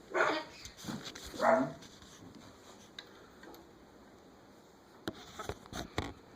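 Two short, loud dog-like yelps about a second apart, with a fainter one between them, then a few soft clicks near the end.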